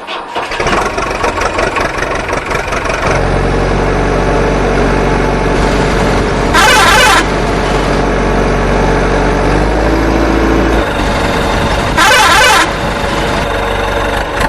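Heavy vehicle engine running steadily in a cartoon soundtrack, its low rumble growing heavier about three seconds in, broken twice by a short, loud blast about five seconds apart.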